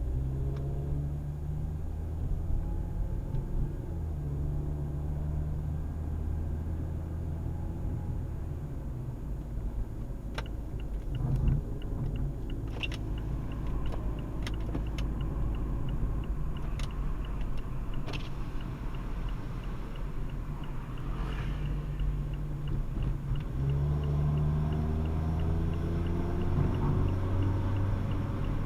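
Car engine running, its low drone shifting pitch a few times. From about ten seconds in comes a fast, even, light ticking, with a few sharper clicks. This is the car's unusual noise being recorded.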